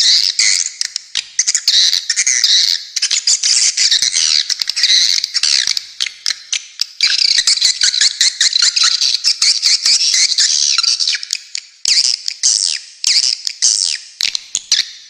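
Edible-nest swiftlets calling: a loud, dense run of rapid, high chirping twitters that goes on with barely a break, dipping briefly about twelve seconds in.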